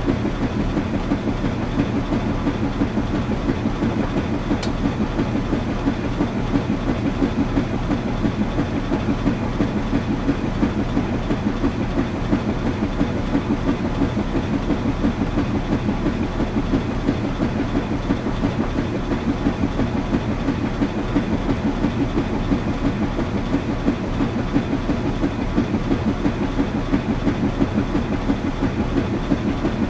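Washing machine running: a steady low motor hum under a fast, regular churning pulse.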